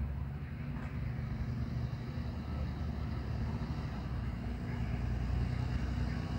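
A motor vehicle's engine running steadily, a low hum with no sudden changes.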